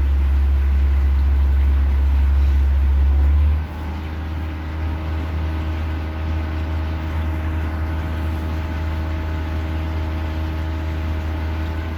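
Houseboat's motor running steadily underway, a low rumble with a steady hum above it. About four seconds in it drops in level and then holds steady.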